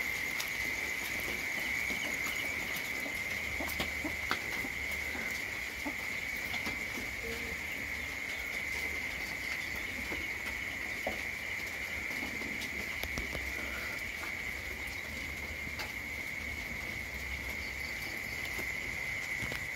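Insects trilling steadily: one continuous high, even buzz, with scattered faint ticks over it.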